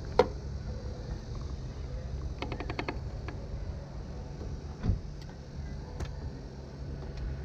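Suzuki GSX-R1000 K7's inline-four on its stock exhaust running at a steady low rumble, without revving. A sharp click comes just after the start, a quick run of light ticks around the middle, and a dull thump about two-thirds of the way in.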